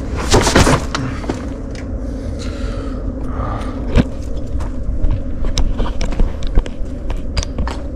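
Motorcycle engine running steadily, with a short burst of noise about half a second in and many scattered sharp clicks and knocks.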